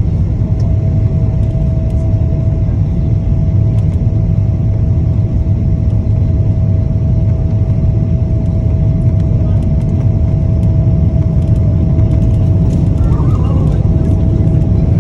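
Cabin noise of a Boeing 777-200 airliner with its engines running: a steady deep rumble with a thin steady whine running through it.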